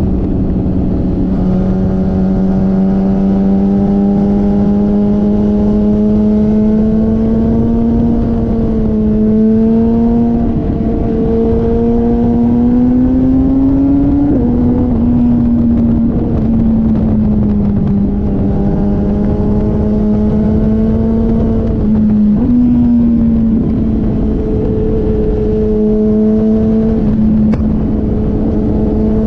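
Motorcycle engine running at speed on a race track. Its note climbs slowly as the bike accelerates, drops sharply at a gear change about halfway through, and shifts again about three-quarters of the way in.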